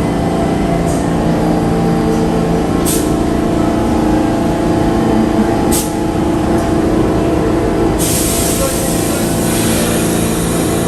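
Subway train in a station with its motors and equipment humming steadily in several tones, a few short high clicks, and a loud hiss of air from the brakes or air system starting about eight seconds in.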